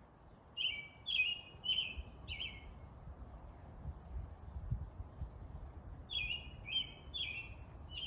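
A bird chirping in two short phrases of four sharp, quick notes each, one phrase about half a second in and another about six seconds in, over a low steady background rumble.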